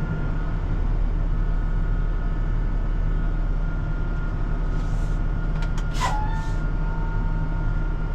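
Semi truck's diesel engine running steadily, heard inside the cab as a low, even rumble. A few sharp clicks and a short beep come about six seconds in.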